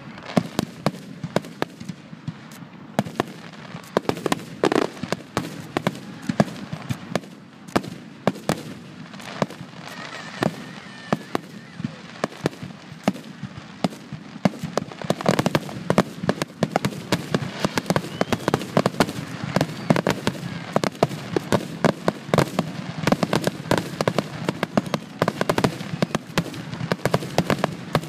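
Aerial fireworks shells bursting in a finale barrage: a rapid, continuous run of bangs, growing denser and louder about halfway through.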